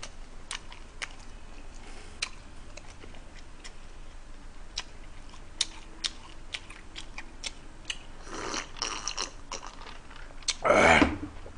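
Close chewing of firm, undercooked spaghetti and pizza, with many short, sharp mouth clicks and smacks scattered through. Near the end there is a louder breathy burst as he drinks from a cup.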